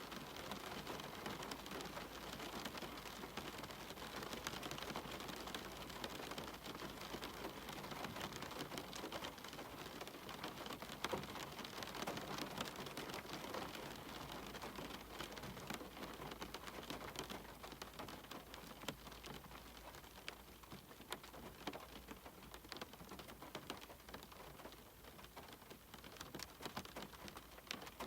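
Steady rainfall: an even hiss of rain dotted with many separate drop ticks, easing slightly in the second half.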